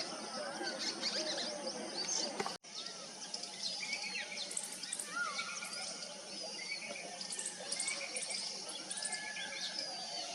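Many wild birds calling at once: a dense mix of overlapping chirps, short whistles and gliding notes over a low outdoor hiss. The sound cuts out for an instant about two and a half seconds in, then the chorus carries on.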